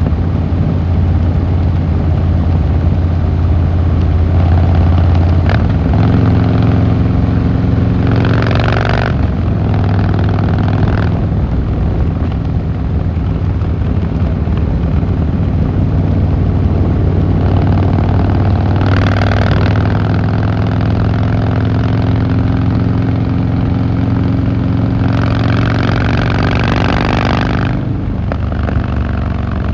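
Harley-Davidson Fat Boy Lo V-twin engine and exhaust running under way, its pitch rising and falling with throttle and gear changes. Three stretches of louder rushing noise come in a few seconds apart.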